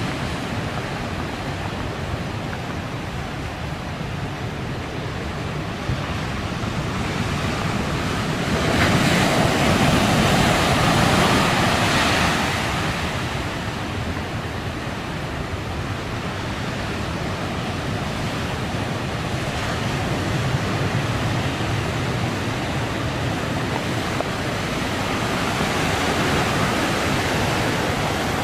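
Heavy typhoon-driven surf breaking on the shore: a steady wash of waves, with a bigger wave crashing louder about nine seconds in for a few seconds and a smaller surge near the end.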